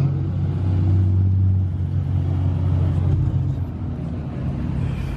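A car engine idling with a steady low rumble, easing slightly about three seconds in.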